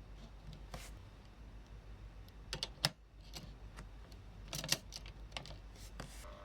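Scattered light clicks and taps of small hard objects being handled, with two short clattering clusters about two and a half and four and a half seconds in.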